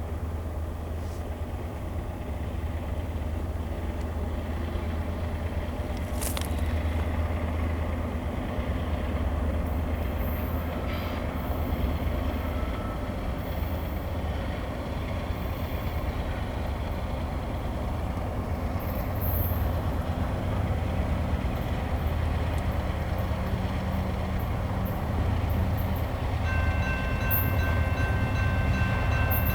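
Approaching diesel locomotives of a loaded coal train with a steady low rumble that slowly grows louder. Near the end their horn starts to sound, a held chord of several steady notes.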